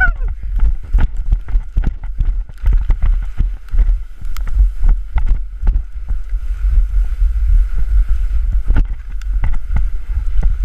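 Wind buffeting the microphone during a fast glissade down a snow slope, with a dense run of scrapes and knocks from the body sliding over the snow.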